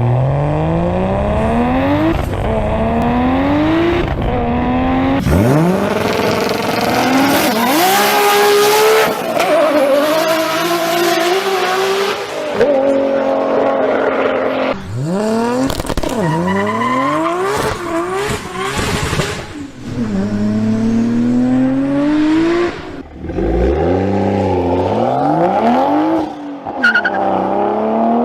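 Inline-six car engines revving hard and accelerating through the gears: the pitch climbs, drops at each shift, then climbs again. It changes abruptly several times to a different car's engine.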